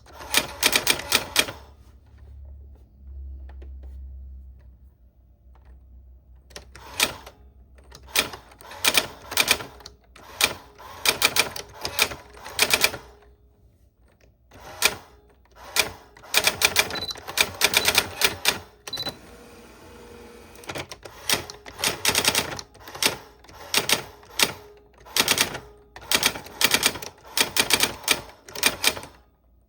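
Old typewriter being typed on: bursts of rapid key strikes, a few seconds of pause near the start, then steady typing in short runs broken by brief pauses.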